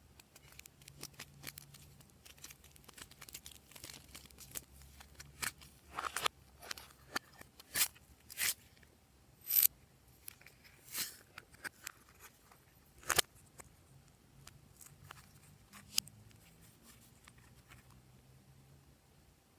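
Glossy slime being kneaded and stretched by hand: irregular sticky clicks and snaps, with a handful of louder pops between about 6 and 13 seconds in.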